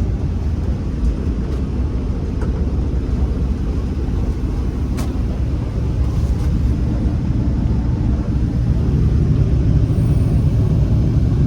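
Class 47 diesel locomotive's twin-bank twelve-cylinder Sulzer engine running, heard from inside the cab as a steady low rumble that grows louder over the last few seconds. A single sharp click sounds about halfway through.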